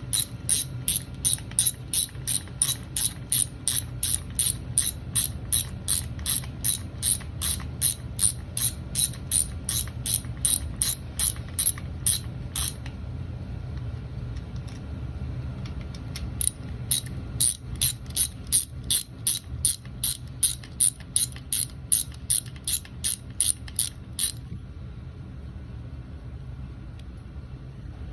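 Hand ratchet wrench clicking in two long runs of steady strokes, about three clicks a second, with a pause of a few seconds between, as bolts are worked on the engine's flywheel cover.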